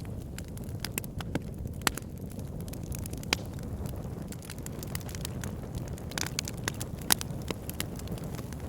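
Campfire burning with a low steady rumble of flames and irregular sharp crackles and pops from the burning wood, a few louder snaps standing out.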